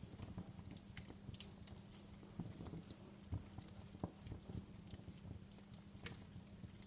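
Wood fire crackling, with irregular sharp pops and snaps over a soft hiss and a faint steady low hum.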